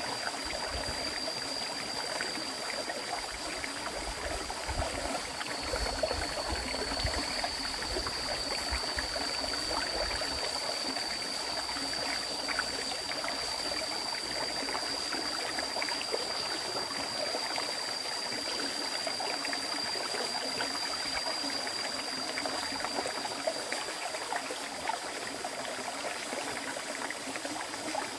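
River water flowing steadily over a stream bed, a continuous rushing and trickling, with a thin, steady high-pitched whine held above it throughout.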